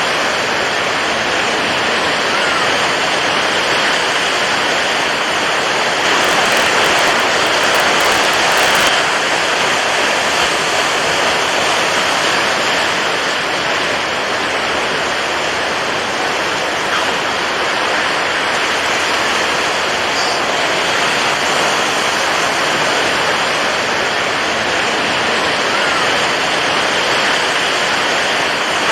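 Steady rushing water, a continuous even hiss that swells a little about a quarter of the way in.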